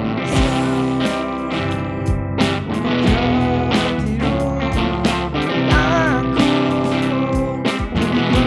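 A live rock band plays together: electric guitars, bass and a drum kit keeping a steady beat. The lead guitar is set too loud and the bass too low in the mix.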